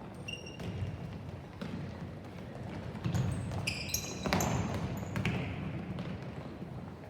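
Soccer match field sounds: a steady low rumble with occasional thuds of the ball, and short high-pitched chirps, the loudest group of them about halfway through.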